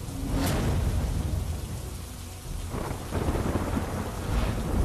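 Rain falling with heavy low rumbling that swells about half a second in and again from about three seconds on, louder near the end.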